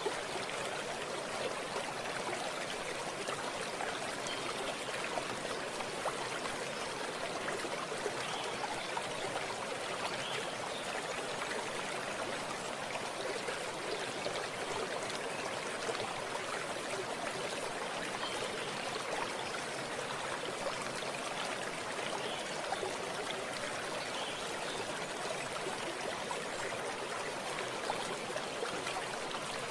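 Running water of a stream, a steady even rush with small trickles and splashes throughout.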